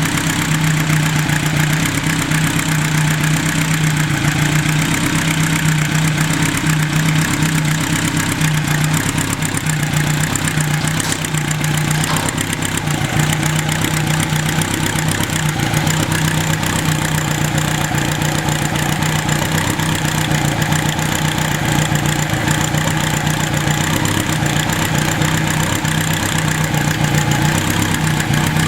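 Kawasaki Z2's air-cooled inline-four engine idling steadily on Mikuni TMR flat-valve carburettors. The light clacking is the chatter typical of flat-valve carbs, while the engine itself runs quietly.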